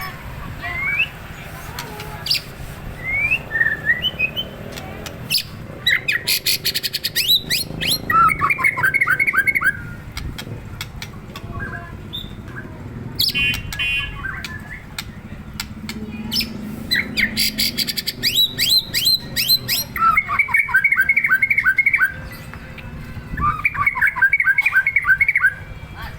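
White-rumped shama singing: a varied string of song phrases with quick rising whistled notes, rapid high trills, and several runs of fast repeated chattering notes.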